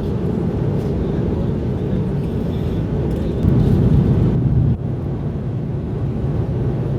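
Steady low rumble of cabin noise inside an Airbus A330 airliner. It swells for about a second past the middle, then drops abruptly.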